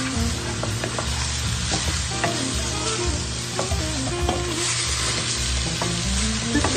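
Diced pork sizzling in a frying pan while a wooden spatula stirs and turns it, with scattered light clicks and scrapes of the spatula against the pan.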